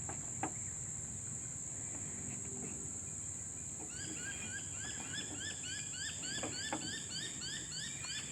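Steady high-pitched shrilling of insects such as crickets. From about four seconds in, an animal joins with a fast run of short rising calls, about three a second, over a few faint clicks.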